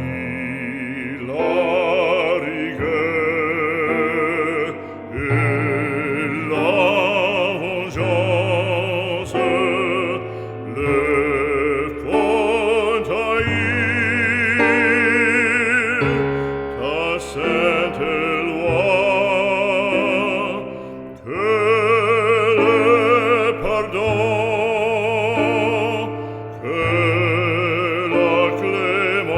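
Operatic singing: a trained voice with a wide vibrato over instrumental accompaniment, in long held phrases with short breaks between them.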